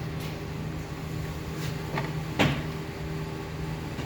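Mercedes-Benz engine being cranked over on the starter without starting, a steady churning hum, with the spark plug out and a compression gauge fitted to cylinder 7 for a compression test.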